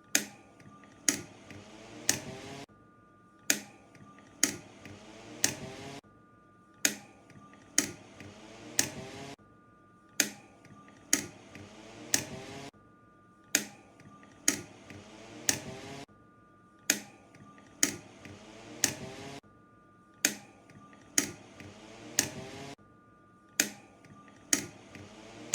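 Speed-selector push buttons on a commercial high-velocity fan clicking in repeated runs of three presses about a second apart, with a short pause between runs, over the fan motor's hum shifting in pitch as the speed changes.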